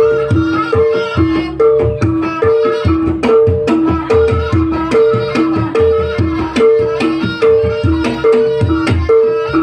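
Javanese gamelan-style music of the kind that accompanies trance dance: hand drums beating under a steady figure of two tuned percussion notes, high and low, alternating about every 0.4 seconds.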